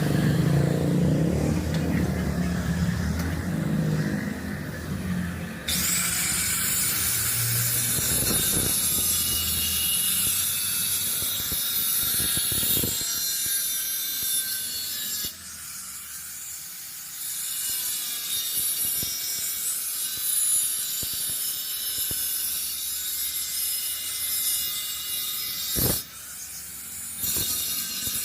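A handheld power grinder abrading sheet metal with a steady, high-pitched hiss. It starts abruptly after a few seconds of low rumble and cuts out briefly twice, once about halfway and once near the end, before starting again.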